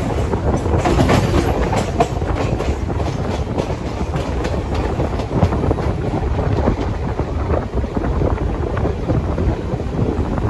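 Moving passenger train heard from on board the coach: a steady, loud running rumble of wheels on rail, with frequent irregular clicks and clatter from the wheels passing over rail joints.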